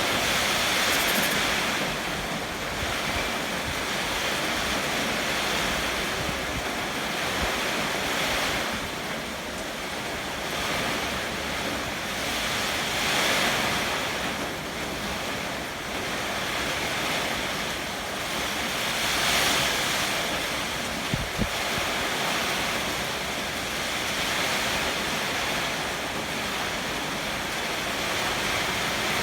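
Heavy rain falling steadily with strong wind gusting over it, swelling and easing every several seconds. Two brief low knocks about two-thirds of the way through.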